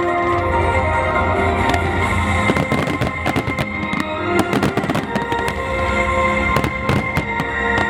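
Aerial fireworks bursting in quick, irregular bangs and crackles, thickening from about two seconds in, over loud music with a steady beat.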